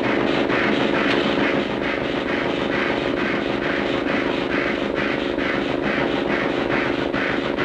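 A steady, droning engine sound effect with an even, fast chugging pulse, like a cartoon aircraft or rocket motor.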